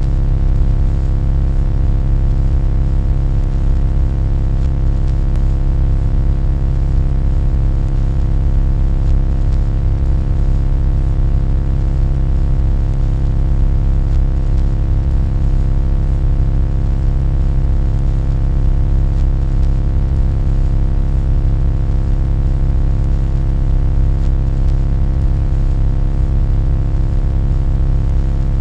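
Loud, steady low rumbling drone with a constant hum of many steady tones above it, unchanging throughout.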